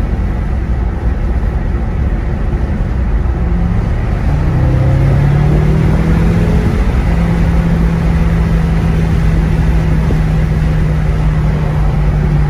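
BMW F10 M5's twin-turbo V8 pulling on the stock exhaust, heard from inside the cabin over heavy road rumble. About four seconds in, a steady low engine drone comes up and holds. Little exhaust note comes through, the sign of the quiet factory mufflers and resonators.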